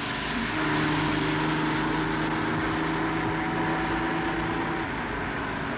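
Rally car engine running hard up a hill climb, holding a steady note for several seconds before it changes near the end, with road noise underneath.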